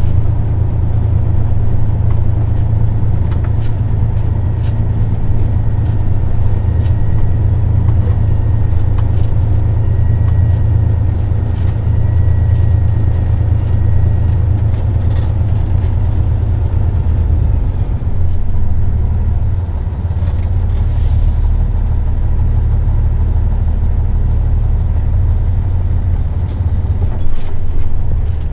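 Semi truck's diesel engine pulling under load, a steady low rumble heard from inside the cab, with a few light clicks and rattles. The tractor is working through slippery mud with its inter-axle differential lock engaged.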